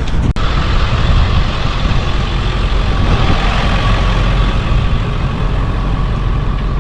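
Engine running steadily, a dense low rumble with a faint steady whine above it, and a single click just after the start.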